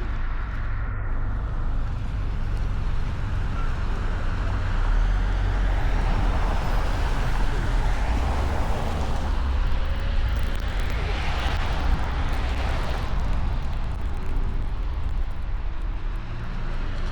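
Car driving through snow: a steady low engine and road rumble under a continuous hiss of tyres on the snowy road. The hiss swells louder in the middle and then eases.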